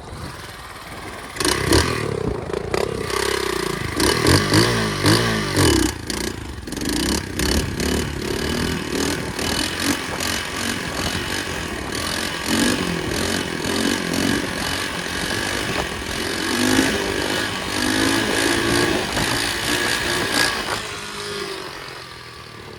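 Pit bike engine revving and pulling through the gears as it is ridden, climbing in pitch again and again, with rattling knocks throughout. Near the end the engine sound falls away.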